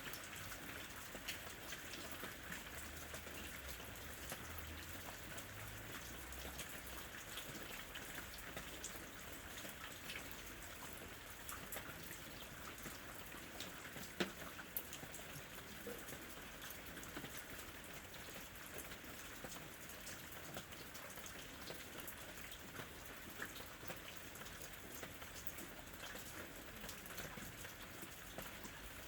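Steady rain, with many individual drops striking a surface and one sharper drop about halfway through.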